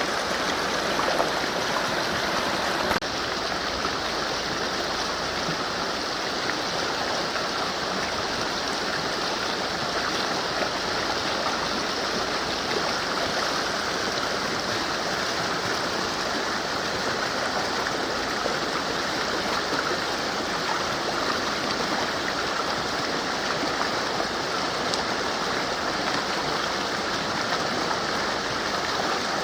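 Mountain river rushing steadily over rocks, a continuous even wash of water noise. About three seconds in the hiss at the top of the sound thins slightly, then carries on unchanged.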